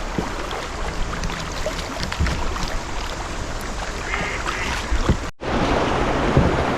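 Kayak on a river: water running and splashing around the boat with wind buffeting the microphone. The sound cuts out abruptly about five seconds in and comes back as a louder rush of water and wind.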